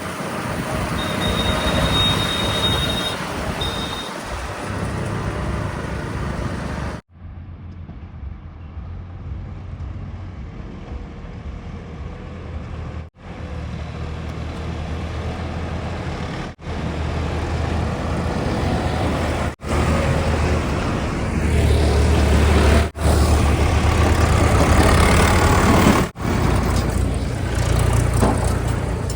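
Heavy diesel engines of a backhoe loader and tipper trucks running, the sound cutting abruptly several times where clips are joined. A brief high steady tone sounds near the start.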